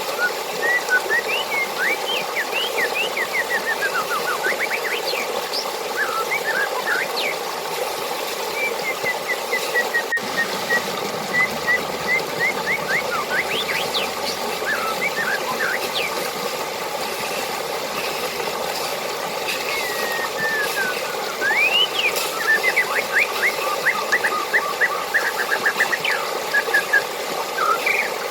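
Water running steadily, with birds chirping over it in quick series of short rising and falling notes, busiest near the end.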